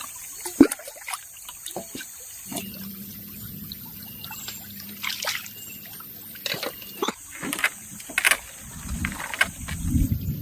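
Water trickling and splashing, with scattered short knocks and splashes.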